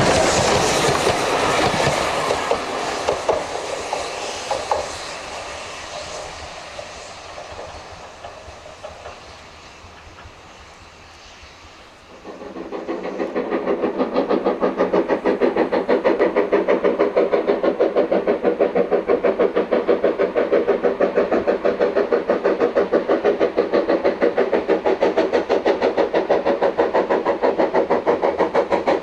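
A train runs past on the line, its noise dying away over about twelve seconds. About twelve seconds in, a steady, rhythmic mechanical pulsing of about four beats a second starts abruptly and runs on.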